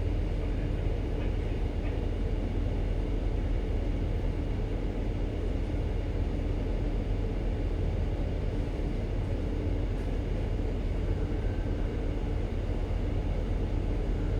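Steady low drone of a ship's engine and machinery heard on board, with a constant hum and no change in pitch.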